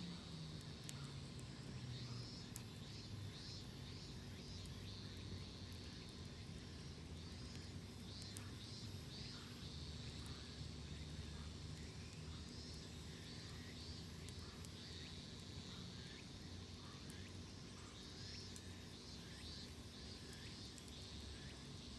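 Faint outdoor ambience of insects chirping in repeated short bursts, with a few sharp crackles now and then from a wood fire.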